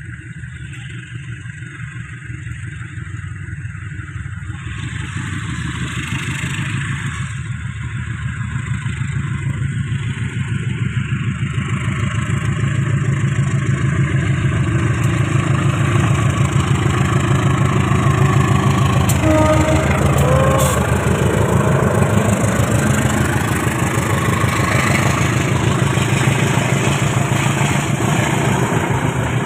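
Diesel-hauled passenger train pulling out of the station. The engine noise and the running clatter of its wheels on the rails build up over the first fifteen seconds or so as it gathers speed, then hold steady as the carriages roll past, with a brief squeal about twenty seconds in.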